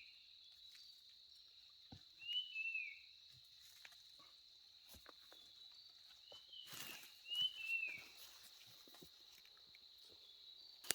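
Steady high-pitched insect drone, with a bird's short two-note chirping call heard twice, once about two seconds in and again near the middle. Light clicks and a brief rustle, like footsteps in vegetation, come around the middle.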